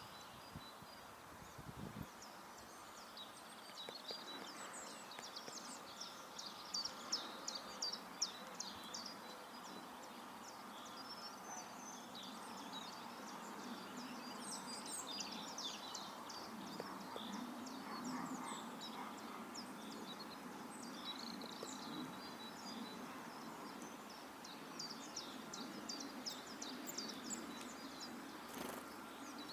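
Small garden songbirds calling, a scatter of rapid high chirps and twitters coming in clusters, over a steady low background noise of outdoor ambience.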